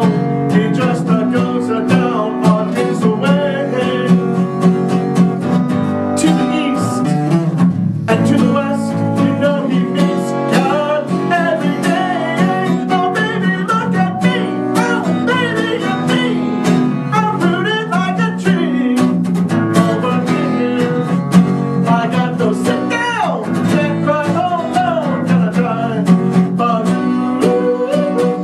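Acoustic guitar playing steadily, with a melody line above it that bends and slides in pitch.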